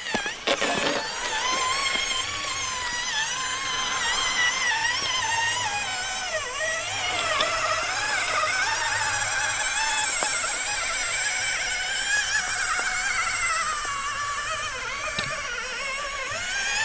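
Electric motor whine of an 8x8 RC rock crawler, its pitch wavering up and down as the throttle is fed in and eased off while it crawls.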